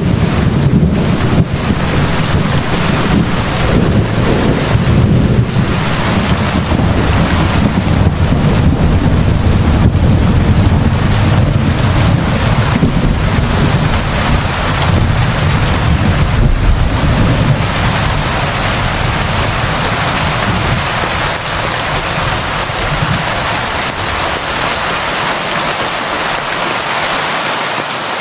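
Steady heavy rain falling, with a long low rumble of rolling thunder under it that slowly dies away over the second half.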